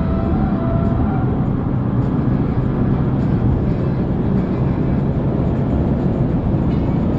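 Car engine and road noise heard steadily from inside the cabin while driving, with a faint pair of steady tones fading out about a second in.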